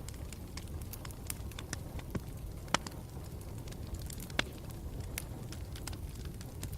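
Campfire burning steadily, its low rumble broken by frequent sharp crackles and pops, two of them louder, near the middle.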